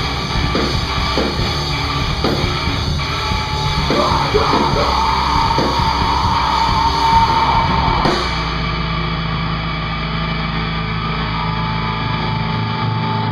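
Live heavy rock band with distorted electric guitar and a drum kit. About eight seconds in, the drums and cymbals stop and a held chord rings on.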